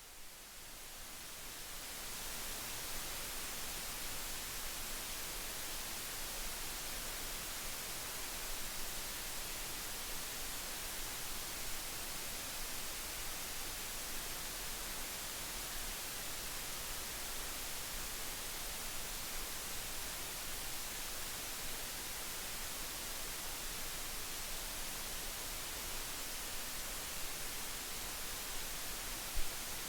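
Steady, even hiss with no tone or rhythm in it, fading in over the first couple of seconds.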